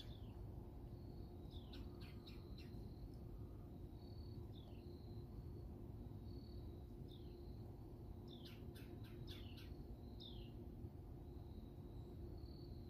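Faint bird calls: short high chirps recurring every few seconds, some falling in pitch, and two quick runs of sharp chip notes, one early and one about two-thirds through, over a low steady rumble.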